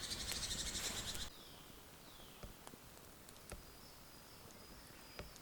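Birds in woodland giving short calls that fall in pitch, with a thin high note held near the end and a few sharp clicks. A dense crackling hiss cuts off suddenly about a second in.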